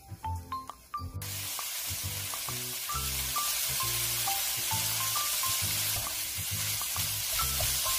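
Gosari (bracken fern stems) sizzling steadily as they are stir-fried in a wok with a wooden spatula; the sizzle comes in abruptly about a second in. Light background music with plucked notes plays underneath.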